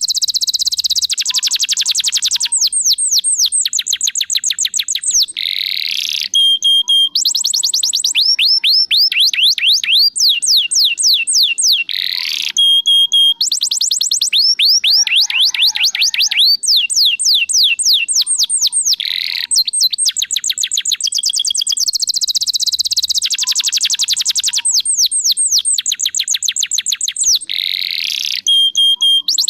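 Domestic canary singing nonstop in full song. Its song is long rolls of rapid, evenly repeated whistled sweeps, changing to a new phrase every few seconds, with short steady notes between the rolls.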